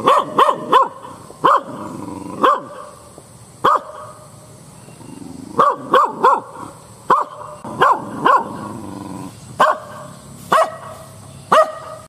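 Dog barking: about fifteen short, sharp barks, some single and some in quick runs of two or three.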